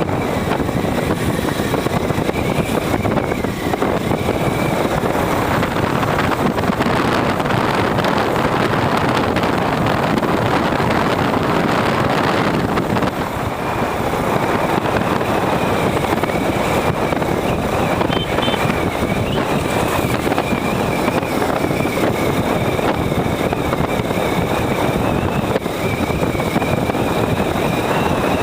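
Steady wind and road noise of a moving motorcycle, with wind buffeting the microphone.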